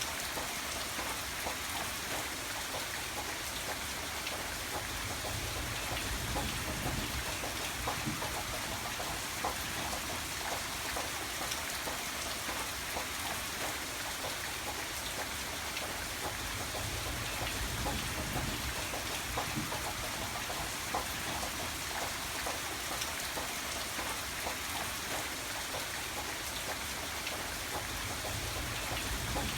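Steady rain falling, with many individual drops pattering on a hard surface. A low rumble swells briefly twice underneath.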